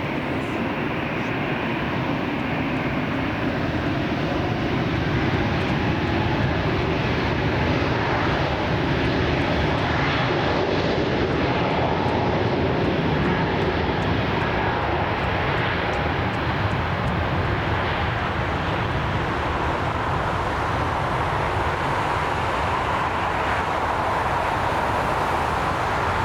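Jet airliner's engines running, a loud steady noise that swells slightly midway, with a faint whine coming in during the last part.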